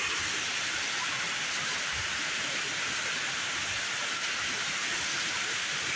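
Heavy thunderstorm rain pouring down steadily, a dense even hiss.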